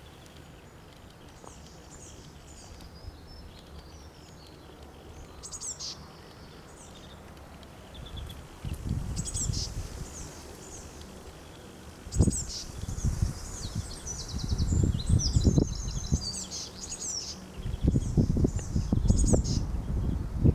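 Wild birds singing, with short chirping phrases repeated every few seconds. From about eight seconds in, gusts of wind buffet the microphone in low rumbling bursts that grow louder toward the end.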